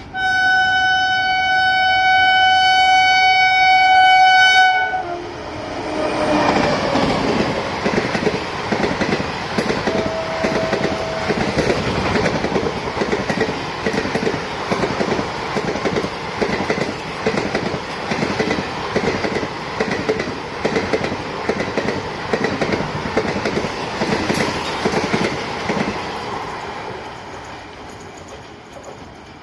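WAP7 electric locomotive's horn sounding one long, loud blast of about four and a half seconds, which cuts off. It is followed by a train passing close by with a rhythmic clickety-clack of wheels over the rail joints that fades away near the end.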